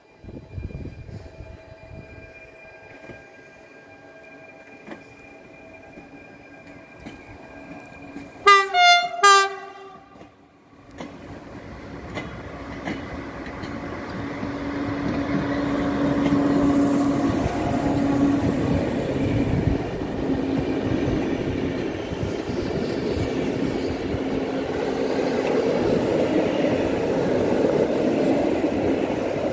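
An EU160 (Newag Griffin) electric locomotive sounds two short horn blasts about eight seconds in. Then it and its passenger coaches approach and pass with a rumble that builds and stays loud, with wheels clattering over rail joints.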